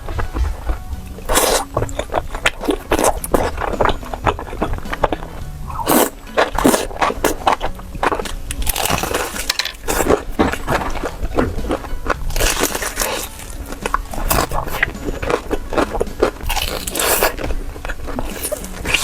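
Close-miked eating of seafood: crunchy bites, shell cracking and chewing, an irregular run of sharp crunches and clicks that come in clusters.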